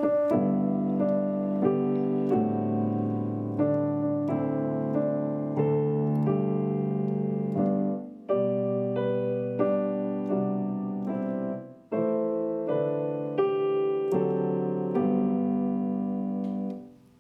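Background music played on piano or electric piano: gentle sustained chords changing every second or so, fading out at the end.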